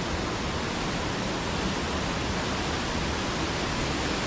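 Steady, even rush of falling water from a waterfall close by.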